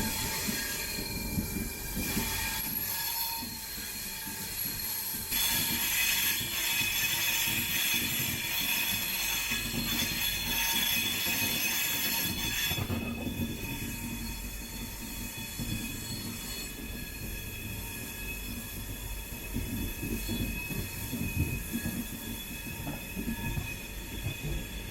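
Wheels of a passenger train's LHB coaches squealing on curving track, several high steady squeals at once over the low rumble of the running gear. The squeal is loudest in the middle and eases off about thirteen seconds in.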